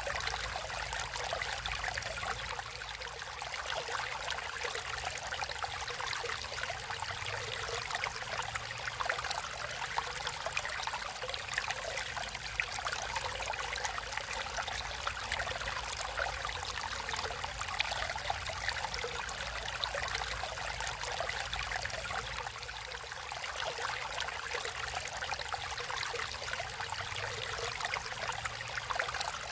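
Natural flowing water, a stream babbling and trickling steadily, with many small splashes.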